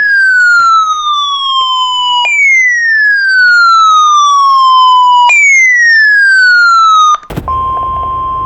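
Electronic siren-like sweeps, each falling steadily in pitch over about three seconds, three in a row. About seven seconds in, a click and then the steady single-pitched NOAA Weather Radio warning alarm tone over radio hiss, signalling a warning about to be read.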